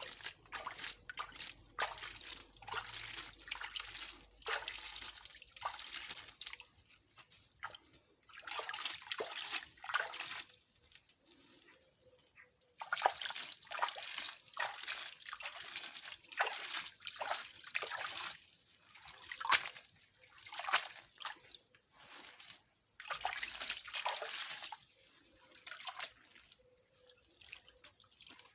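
Water trickling and splashing in irregular bursts, with many small drips and splashes.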